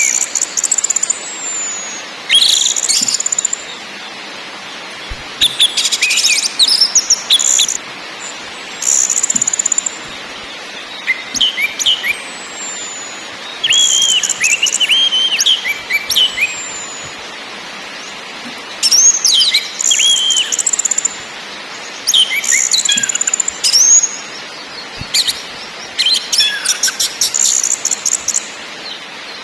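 Orange-headed thrush singing in repeated bursts a second or two long, mixing whistled, gliding notes with harsh rasping phrases, with short pauses between.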